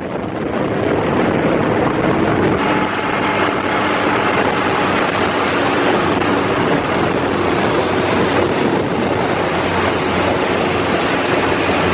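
Large 1970s motorcycle engine running steadily, with wind noise on the microphone.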